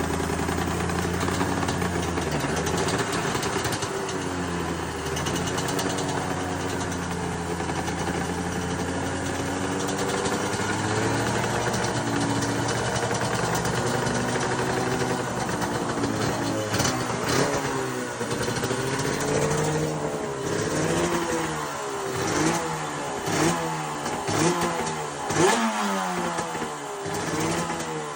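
Suter MMX 500 two-stroke V4 race motorcycle engine idling steadily, then, from a little past halfway, revved in a run of quick throttle blips, each rising and falling in pitch.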